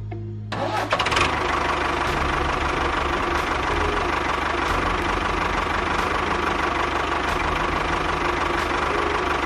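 A small motor running steadily with a rattle, starting about half a second in; most likely the motor of a DIY mini tractor or bulldozer model.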